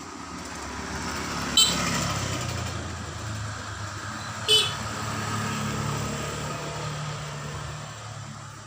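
A motor vehicle going past, its noise swelling and then fading, with two short sharp high-pitched sounds about a second and a half in and again about three seconds later.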